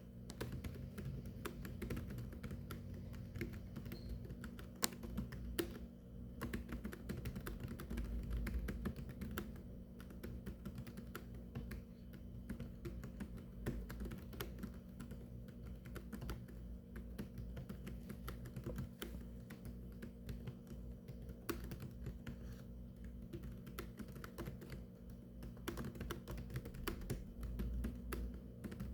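Keyboard typing: a continuous, fast stream of keystroke clicks over a steady low hum.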